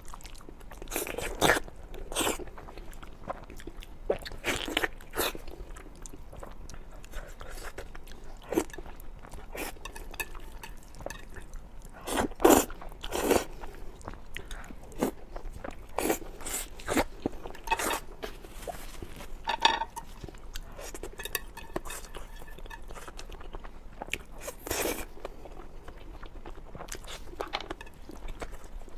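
Close-miked eating: irregular bites, crunches and chewing, some much louder than others.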